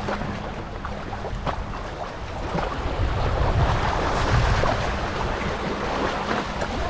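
Wind buffeting the microphone over water washing against a rocky shoreline, with a faint steady low hum underneath.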